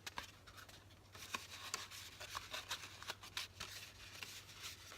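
Faint rustling and light clicks of paper and card as a handmade junk journal's pages and a tag are handled and turned, over a steady low hum.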